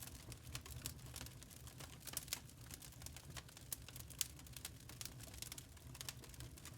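Wood fire crackling in a fireplace: irregular small pops and snaps of burning logs over a faint, steady low rumble.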